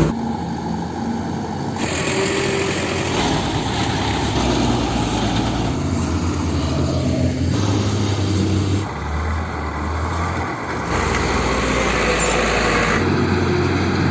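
Heavy diesel vehicle engines running, the sound cutting abruptly from one engine to another every one to three seconds.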